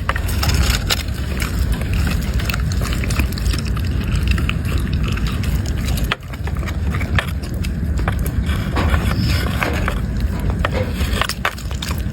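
A dog chewing and crunching food, a dense run of irregular crackling clicks that breaks off briefly about halfway through.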